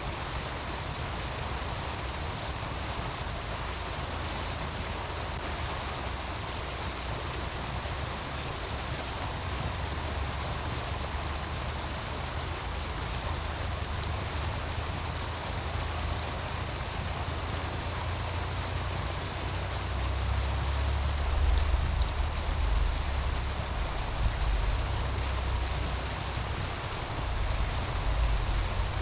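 Steady rushing of a meltwater stream, with sparse sharp crackles and pops from a wood fire. A low wind rumble on the microphone swells about two-thirds of the way through and again near the end.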